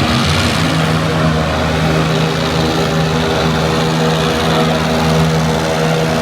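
Jet ski engines running steadily at speed, with a strong wavering hum.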